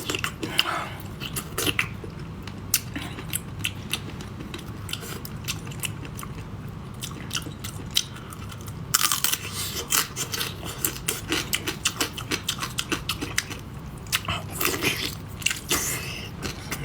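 Close-up eating sounds of a person chewing and biting food, with many wet mouth clicks and crunches. The chewing is denser and louder for a second or so about nine seconds in and again about fifteen seconds in. A steady low hum lies under it.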